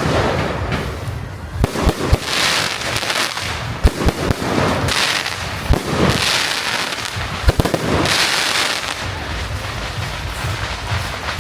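Fireworks display: sharp bangs of bursting shells every second or two, with a swelling crackle of glittering effects every two to three seconds.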